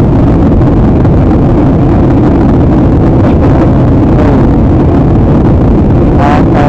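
Steady, loud rush of cabin noise in an airliner in flight: engine and airflow noise, heaviest in the low range and unchanging throughout.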